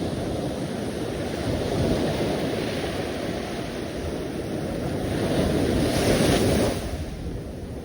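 Sea waves washing on the shore: a steady surf with one wave swelling to its loudest about six seconds in, then falling away.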